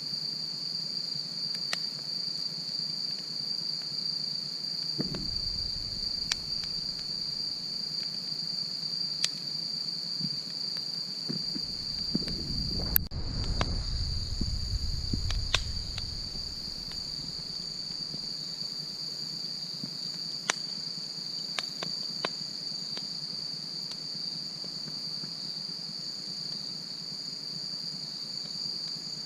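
Wood fire crackling, with scattered sharp pops over a steady, high-pitched insect chirring. Twice a low rumble rises briefly, the second and longer one a few seconds before the middle.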